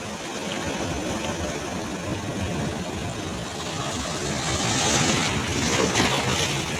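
Ocean waves: a steady rumbling wash of surf that swells past the halfway point as a wave breaks and hisses, then eases near the end.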